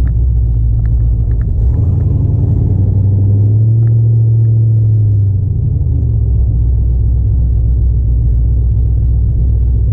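Deep, steady engine rumble from the Dodge D150 pickup, which roars. Between about two and six seconds in, the engine note swells up in pitch and level, then settles back to the low drone.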